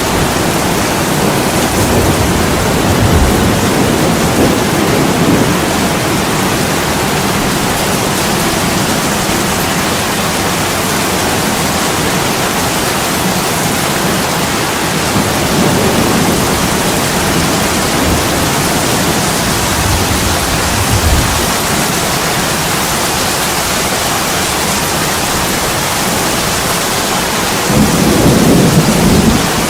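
Heavy rain falling steadily on a window, with low rumbles swelling up several times, the loudest near the end.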